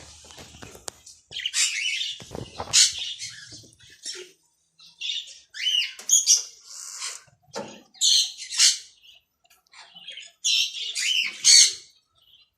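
Caged pet birds calling: short harsh squawks and chirps in repeated bursts, some sweeping up and down in pitch.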